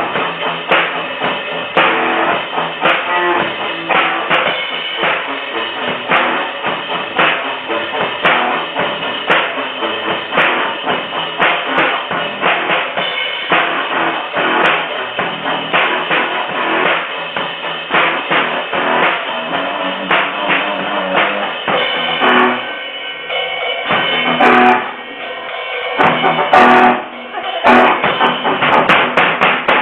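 Band music with a prominent drum kit playing a steady beat on bass drum and snare. In the last few seconds the beat breaks up into short pauses and separate heavy hits.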